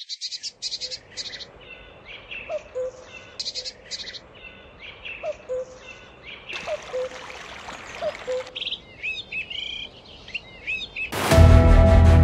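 Several birds singing and calling in forest, with repeated chirps, trills and short whistled notes, and a hiss lasting about two seconds midway. Near the end, music with a heavy bass comes in and is louder than the birds.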